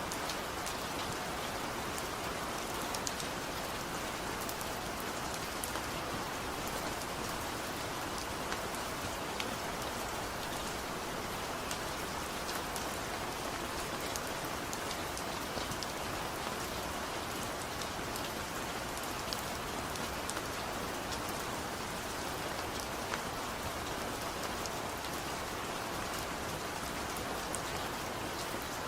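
Steady rain falling without thunder, an even hiss with many small, scattered drop ticks.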